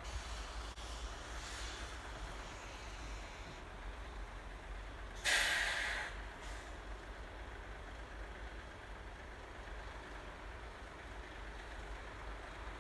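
A sudden sharp hiss of escaping air about five seconds in, fading within a second, typical of a stranded truck's air brakes releasing. A steady low rumble runs underneath.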